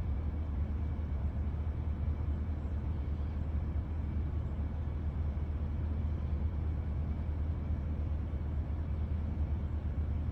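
Steady low rumble of an idling car, heard from inside the cabin, with a faint even hiss and no distinct events.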